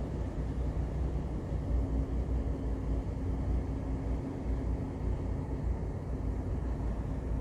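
Ship's engine running steadily: a deep, even low rumble, with a faint steady hum over it for a few seconds at a time.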